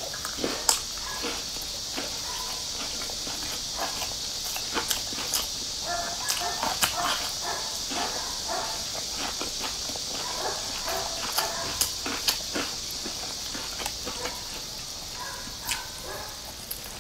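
Close-miked chewing and lip-smacking as a stuffed flatbread is eaten: many short wet clicks and smacks at an irregular pace, over a steady hiss.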